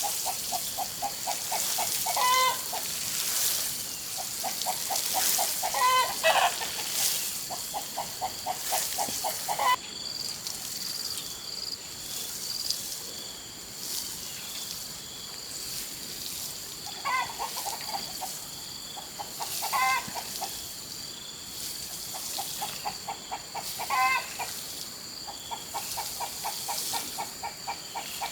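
Chickens clucking: runs of quick low clucks, several a second, broken every few seconds by a louder call that rises and falls. A thin, steady high-pitched whine runs behind them.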